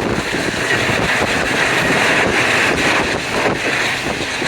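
Passenger train running at speed behind an AGE30 'Blue Tiger' diesel-electric locomotive: a steady rumble of the locomotive and train with wind rushing over the microphone.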